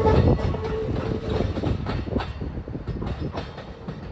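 Electric train pulling away, its wheels clicking over the rail joints, the sound fading as it draws off.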